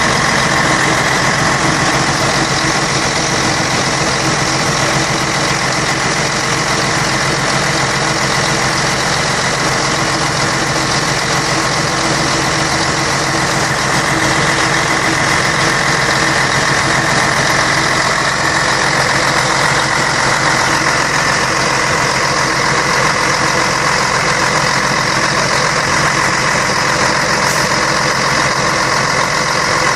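Scania K113 bus's 11-litre six-cylinder diesel engine running steadily at a constant speed.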